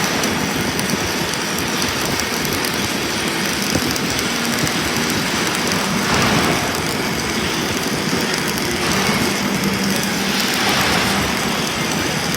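Self-shielded flux-cored arc welding with Lincoln Innershield NR305 5/64-inch wire: a steady arc crackle during a weld pass, swelling slightly about halfway and again near the end.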